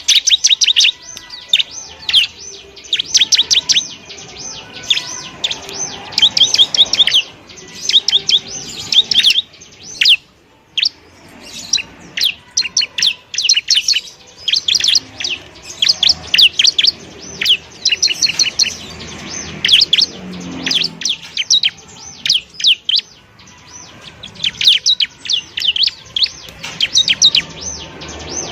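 Ciblek (bar-winged prinia) singing: loud, rapid runs of sharp, high chirping notes in bursts with short gaps between them.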